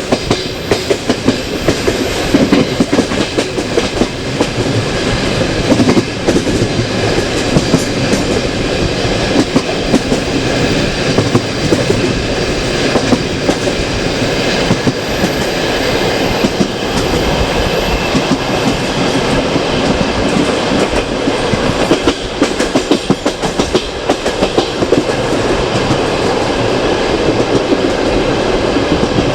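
Passenger train coach running along the track, its wheels clattering over rail joints with a steady rumble.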